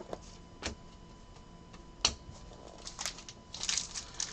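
Trading cards being handled on a table: a few light taps and clicks as cards are set down, then papery, plastic rustling building up near the end.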